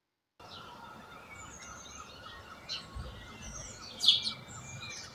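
Small songbirds chirping in bare trees over a steady outdoor hiss, with one louder chirp about four seconds in and a brief low rumble around three seconds in.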